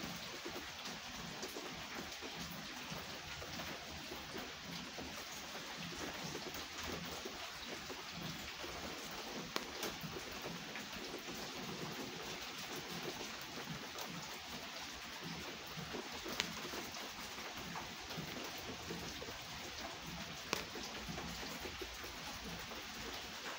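Steady rain falling, with a few sharp ticks standing out now and then.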